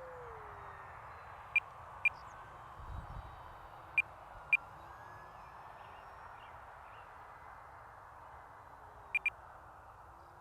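Electric motor of an RC Cessna 182 Skylane flying at a distance, a faint whine that drops in pitch at the start and then glides gently up and down. Three pairs of short, sharp high beeps cut through it.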